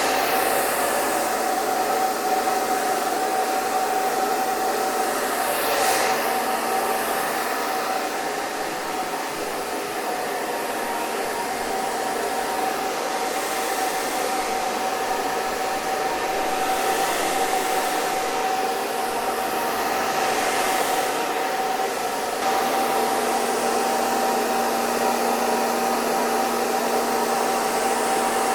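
Hair dryer running steadily: an even rush of blown air with a constant motor whine, the level rising a little about two-thirds of the way through.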